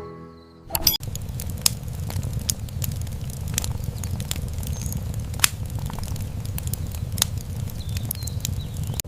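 Steady crackling with scattered sharp pops over a low rumble, setting in about a second in.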